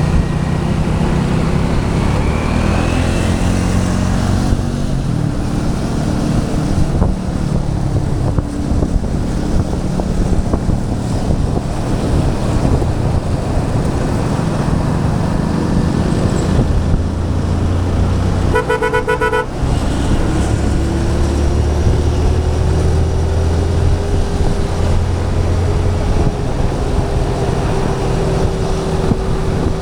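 Motorcycle riding through city traffic: a steady engine drone and wind rumble, with a vehicle horn honking once for about a second about two-thirds of the way in.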